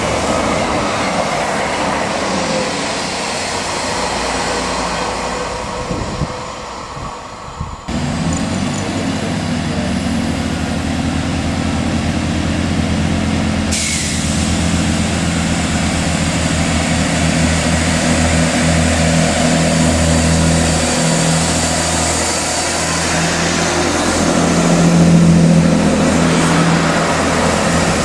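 Diesel multiple-unit passenger trains on the line. First a unit goes by at speed with wheel and rail noise. After a cut comes the steady low drone of diesel engines under power, which grows louder about three-quarters of the way through.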